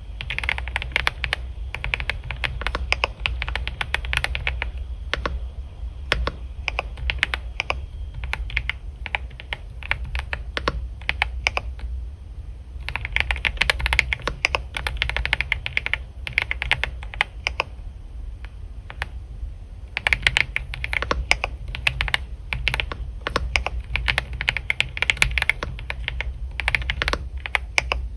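Typing on a computer keyboard: three fast runs of keystrokes with slower, scattered taps between them, over a steady low hum.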